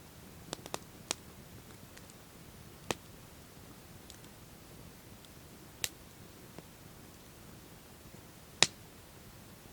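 Wood campfire crackling: a handful of sharp, irregularly spaced pops and snaps, the loudest near the end, over a soft steady low rush of the burning fire.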